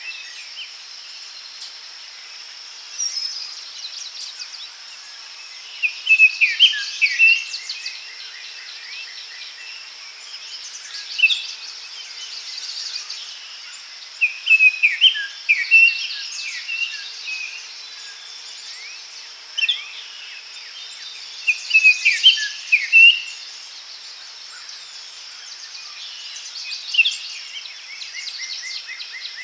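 Daytime forest ambience: songbirds singing in repeated short phrases of chirps every few seconds over a steady high insect drone.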